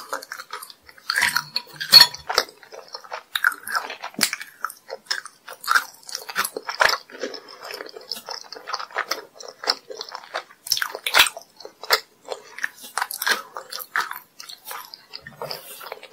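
Close-miked chewing of sugar-coated gummy jellies, with many sharp, irregular sticky mouth clicks and bites.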